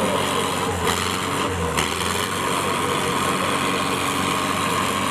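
Tractor diesel engines running steadily and hard under load in a tractor tug-of-war, with two brief knocks about one and two seconds in.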